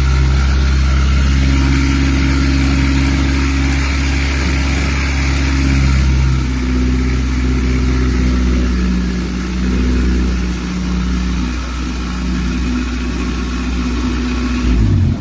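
Used Mitsubishi 4B12 2.4-litre inline-four running on an engine test stand at its first start-up, a run-in check of the engine's condition. The engine runs steadily, and its note shifts a little about halfway through.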